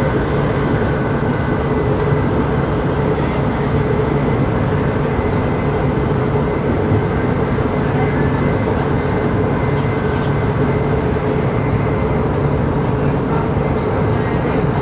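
Interior running noise of a CRH6A electric multiple unit travelling at steady speed, heard inside the passenger coach: a constant rumble with steady whining tones from the traction equipment.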